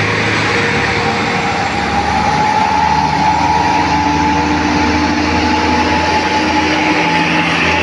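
Heavy truck running on a steep winding road: a steady engine rumble and road noise with a held whining tone over it.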